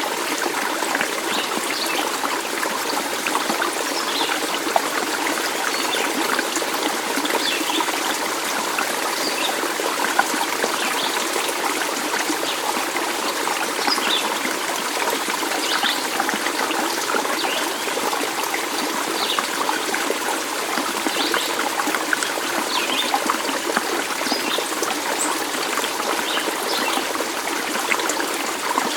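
Water trickling and babbling steadily, as in a small stream, with many small bubbling splashes over an even rush.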